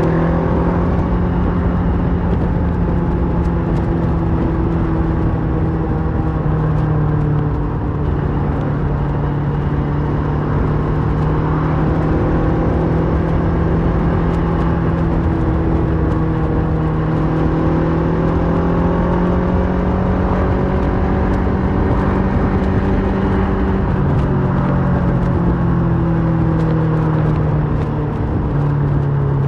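Kawasaki Versys 650's parallel-twin engine running through a MIVV slip-on exhaust while riding at a steady pace. The engine note holds fairly even and shifts in pitch a few times, with a dip near the end, over a constant rush of wind and road noise.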